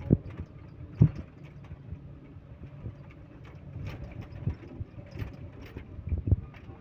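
A heavy machine's engine running steadily at low speed, with loud, dull thumps at the start, about a second in and again near the end.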